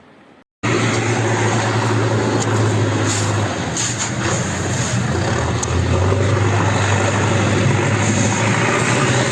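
Steady engine running, with a low hum under a loud, even rushing noise. It starts abruptly about half a second in.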